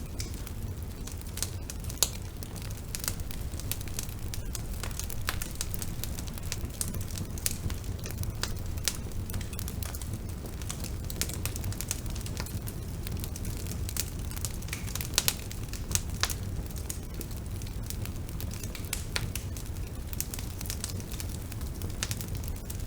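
Bonfire burning: a steady low rumble of flames with irregular crackles and sharp pops of burning wood, a few louder pops standing out.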